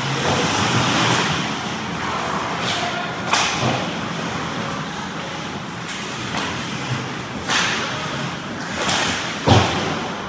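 Ice hockey play heard from beside the net: skates scraping and swishing on the ice, sticks and puck clacking, and two sharp impacts, one about a third of the way in and a heavier thud near the end, like the puck or players hitting the boards.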